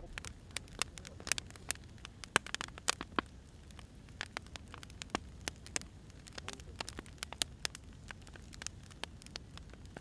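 Firewood burning with irregular sharp crackles and pops over a low, steady rumble of the fire; the loudest pops come between about two and three seconds in.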